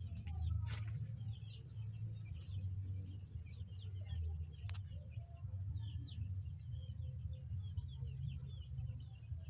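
Many short, high bird chirps repeating over a steady low rumble, with one sharp click about halfway through.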